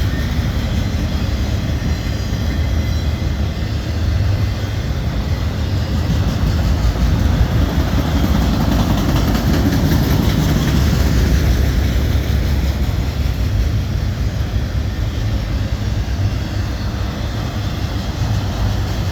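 Long freight train passing close by, a loud, steady rumble of diesel locomotives and rolling cars on the rails that swells slightly midway.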